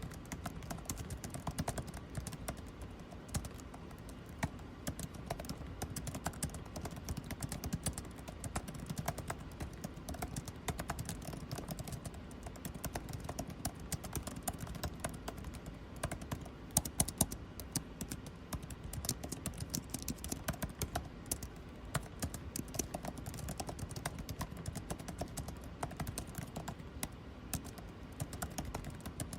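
Continuous fast typing on a computer keyboard, dense key clicks with a few louder keystrokes about two-thirds through, over a steady low air-conditioning hum.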